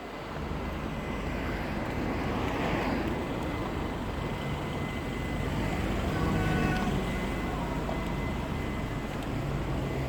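Street traffic: a motor vehicle's engine running close by over a steady outdoor noise, getting a little louder about six seconds in.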